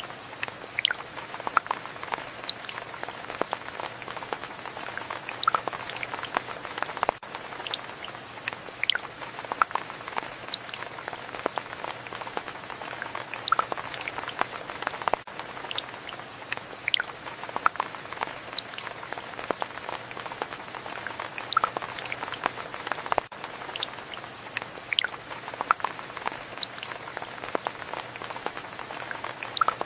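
Steady rain with many individual drops ticking close by, a continuous patter that repeats about every eight seconds, as a looped recording would.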